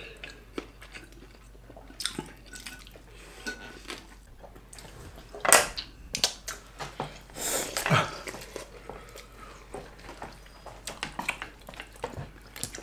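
People chewing and biting food close to the microphone, with wet mouth sounds and light clicks of chopsticks and dishes. Two louder wet noises stand out, about five and a half and about eight seconds in.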